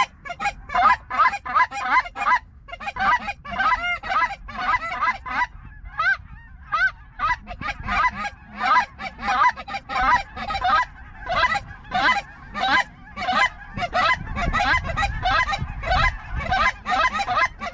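Rapid, continuous goose honking and clucking, several short calls a second, as geese are worked in over a decoy spread just before the shot.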